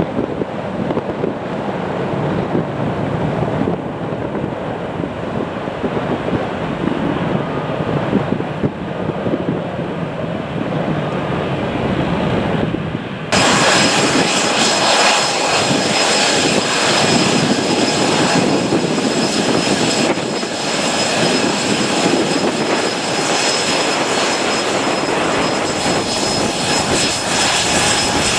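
Airliner jet engines running at high power during a departure: a steady rushing noise that about halfway through jumps suddenly louder, with a high whine added on top.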